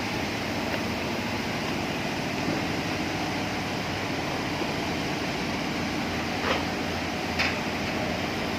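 Steady construction-site background noise, with two short sharp knocks about a second apart near the end.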